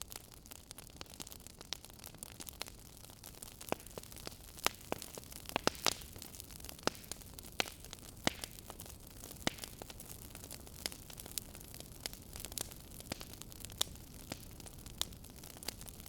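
Fireplace fire crackling: irregular sharp pops and snaps, several a second, over a steady low hiss.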